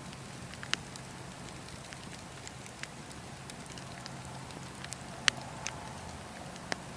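Burning wood fire crackling: scattered sharp pops and snaps, the loudest about five seconds in, over a steady low rush.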